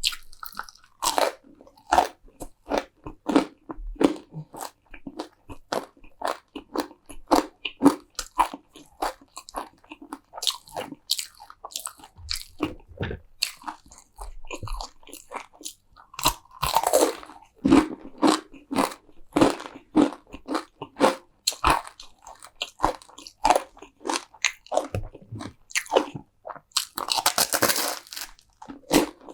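Close-miked eating: bites and chewing of crunchy food, a steady run of short crunches. The crunching gets louder and denser about seventeen seconds in and again near the end.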